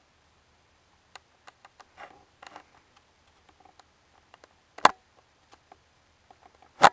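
Scattered faint clicks, then two sharp, loud clicks about two seconds apart near the end.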